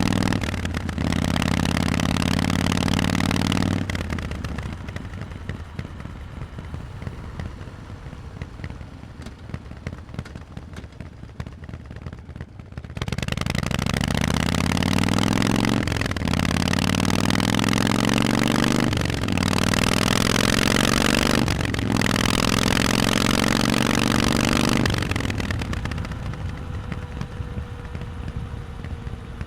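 Harley-Davidson Forty-Eight's 1200 cc air-cooled V-twin running through Vance & Hines exhausts while riding. It pulls under throttle, then rolls off quieter with falling revs for several seconds. It accelerates again through three quick upshifts, each a brief dip and a rise in pitch, and backs off near the end.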